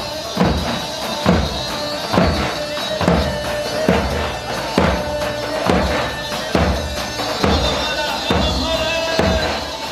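Live halay dance music: a steady, heavy drum beat a little over once a second under a keyboard melody of long held notes, with no singing.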